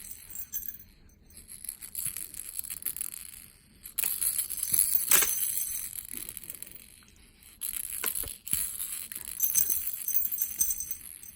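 A baby's jingling rattle toy being shaken in several bursts, with bright metallic jingling and small clicks.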